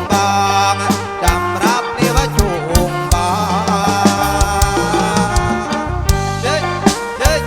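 Live kantrum band playing an instrumental passage between sung verses: a bending, wavering lead melody over a steady drumbeat.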